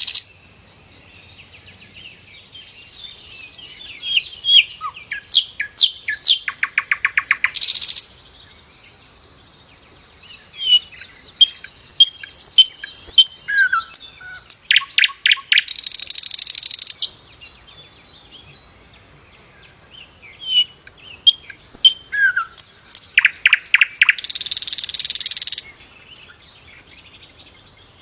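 Sikatan londo flycatcher singing: phrases of short high chirps and whistles, each ending in a fast rattling trill and a harsh buzz. The phrase comes three times, about eight seconds apart.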